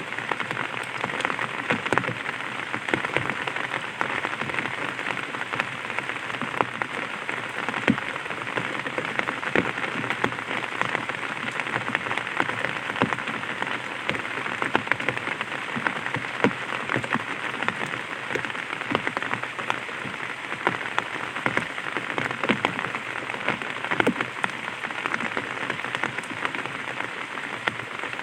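Light rain pattering on an umbrella's fabric canopy: a steady dense hiss of small drops with many sharp individual ticks.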